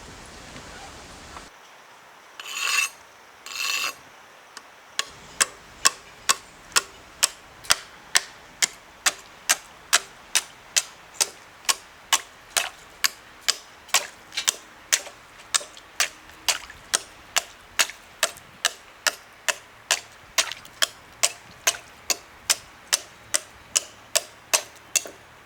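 Two short rasping scrapes, then an even run of sharp ticks, about two a second.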